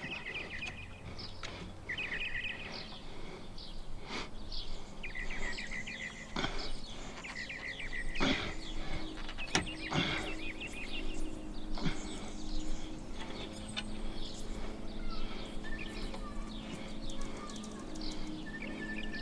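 Small birds chirping in short repeated bursts over a steady background hum, with a few sharp clicks and knocks near the middle.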